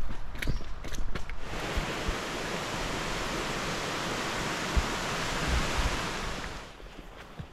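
Footsteps on rough ground for about a second and a half, then a steady rushing hiss of fast-running water, such as a mountain stream or small waterfall, for about five seconds before it falls away near the end.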